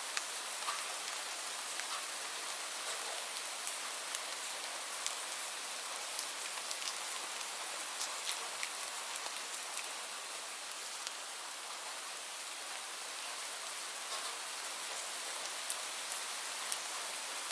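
Steady rain falling, a constant hiss dotted with sharp ticks of individual drops hitting a surface.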